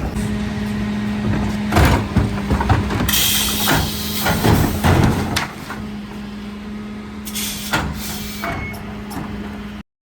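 Mercedes Econic refuse truck working bins: a steady hum from the running truck under bursts of hissing air, with clanks and knocks of bins and lifter gear. The sound cuts off abruptly near the end.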